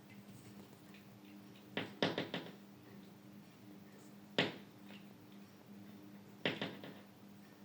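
A bird tapping at the window: a quick run of sharp taps a couple of seconds in, a single tap in the middle, and another run of taps near the end.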